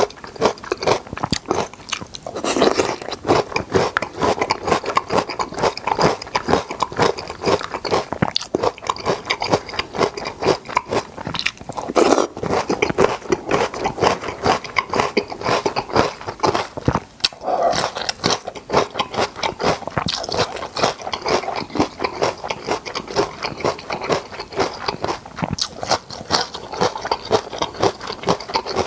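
Close-up crunching and chewing of crispy fried chicken drumsticks: a dense run of crackly bites and chews, with a few louder crunches.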